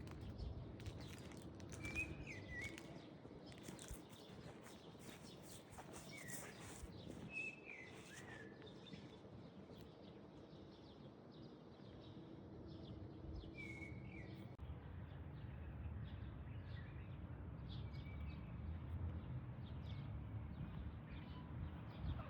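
Faint outdoor ambience with a few short, scattered bird chirps over steady background noise and a low hum.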